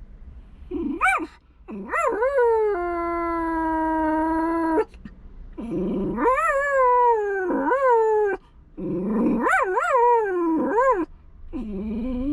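A dog howling and whining in a series of pitched cries that rise and fall, one of them held on a steady note for about two seconds.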